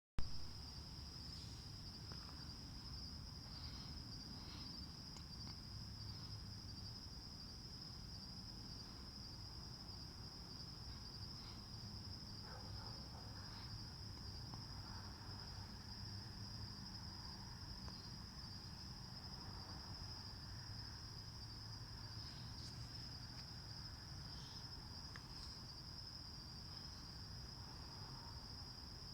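Crickets chirping in a continuous high-pitched trill, over a faint low rumble.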